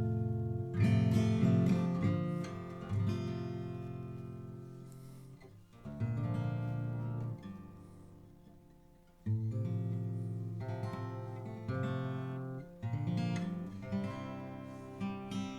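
Seagull S6+Burst acoustic guitar with freshly fitted strings, strummed chord by chord, each chord left to ring and die away before the next; one chord about six seconds in rings out for around three seconds. The strumming tests whether the new strings are holding their tune.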